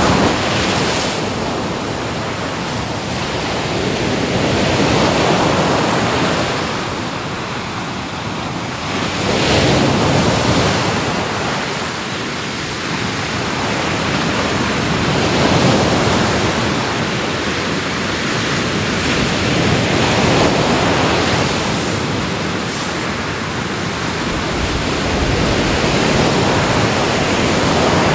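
Ocean waves breaking and washing in, a continuous rush that swells and falls back about every five seconds.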